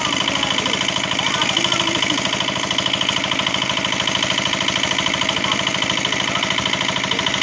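A small engine running steadily with a rapid, even knock.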